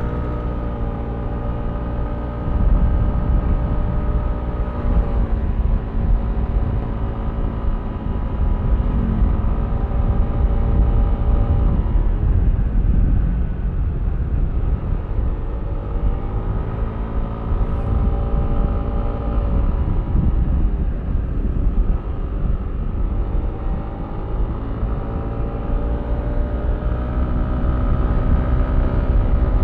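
Yamaha Aerox V3 scooter's 155cc single-cylinder engine running under way, its pitch rising and falling several times as the throttle is opened and closed, with low wind rumble on the microphone.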